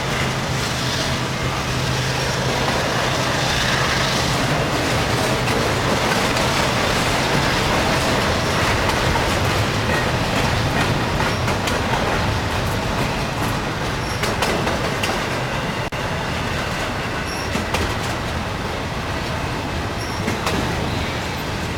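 CSX freight train cars rolling past: a steady rumble and rush of steel wheels on the rails, with scattered clicks and knocks from the wheels crossing rail joints. A low engine drone is heard in the first few seconds.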